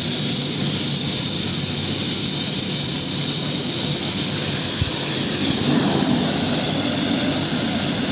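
Air ambulance helicopter running: a steady turbine whine over the noise of the turning rotor.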